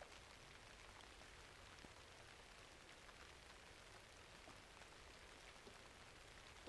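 Faint, steady rainfall mixed with a fireplace, with scattered small ticks and pops over an even hiss.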